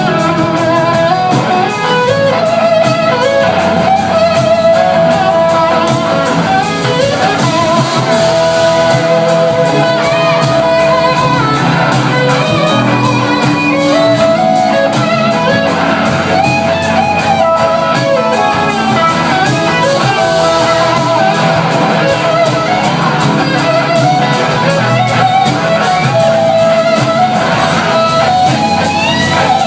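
Electric slide guitar playing a solo over a band, with long held notes and pitch glides sliding up and down between them.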